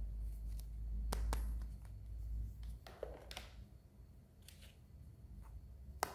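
Hands handling a toy and its packaging: scattered light clicks and a few short scraping rustles over a low handling rumble.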